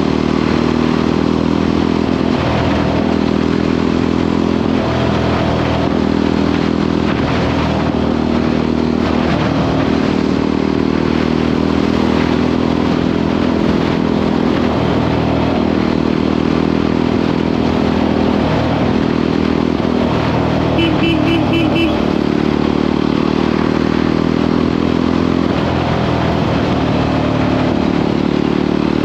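Motorcycle engine running steadily at cruising speed with a constant noisy rush over it. About three-quarters of the way through, a short pulsing beep sounds for about a second.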